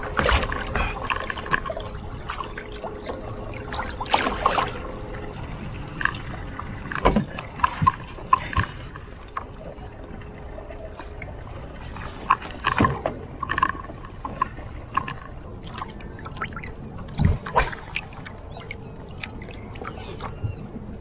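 Irregular knocks and clatter of gear being handled on a plastic fishing kayak, a few sharper bumps spaced several seconds apart.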